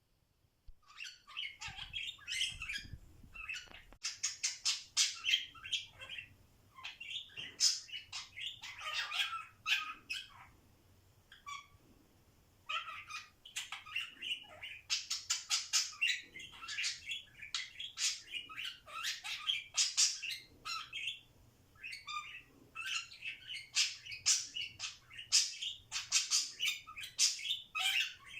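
Pet budgerigar warbling and chattering in quick, scratchy chirps, mixing in its mimicked call of the name "Lemon", with a short pause about halfway through.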